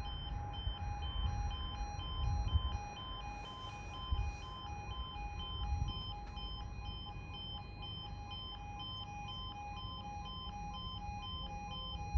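Level crossing audible warning alarm sounding steadily as two alternating tones, the warning that a train is approaching. Low rumbling noise lies underneath.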